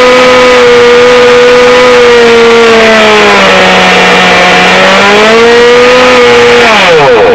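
Small two-stroke nitro glow engine of a 1981 Mardave Marauder RC car running fast and loud, its pitch sagging a few seconds in and picking up again, then dropping away as it cuts out at the very end. It runs better now that the loose carburettor has been dealt with.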